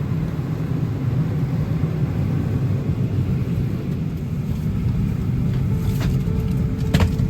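Steady low rumble of cabin noise inside a Boeing 737-800 on the ground before takeoff, with a faint steady hum and two light clicks near the end.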